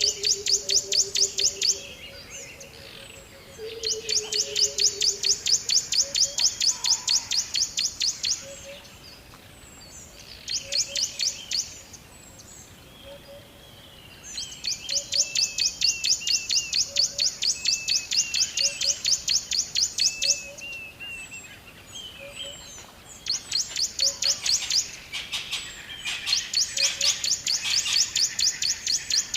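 Birds singing, led by a loud, rapid, high-pitched trill that comes in repeated bouts of one to six seconds. Under it other birds call with softer, lower notes, one of them a short note repeated about once a second.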